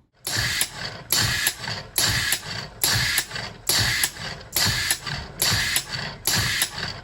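Single-cylinder compressed air engine running: a regular cycle of clicks and hissing bursts of air, repeating a little more than once a second.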